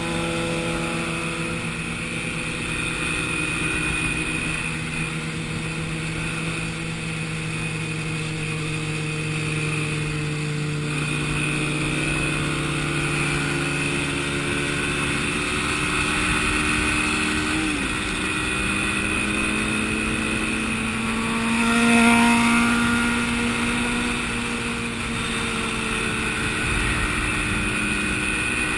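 Motorcycle engine running at a steady pace, its pitch drifting slowly up and down, with a brief louder swell about three-quarters of the way through.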